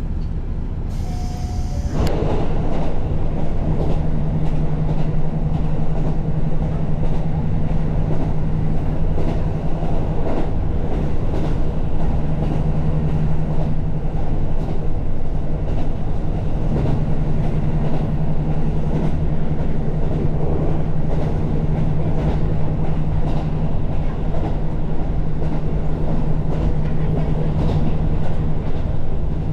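Diesel railcar running along the track: a steady engine drone over the rumble of the wheels. It gets louder about two seconds in, just after a brief high tone.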